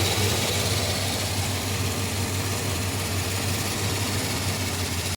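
Chrysler 360 V8 idling steadily with an even low hum, running much quieter with its leaking air-injection check valve removed and the port capped off.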